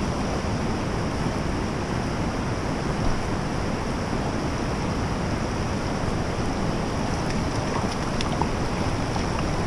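Steady rush of fast-flowing stream water, an even noise without distinct events.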